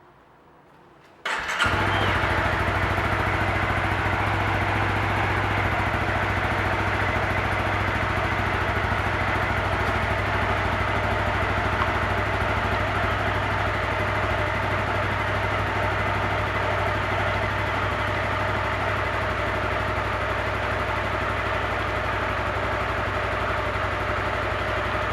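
Honda CBR250R's single-cylinder engine starting about a second in, then idling steadily, already warm and breathing through its stock air filter.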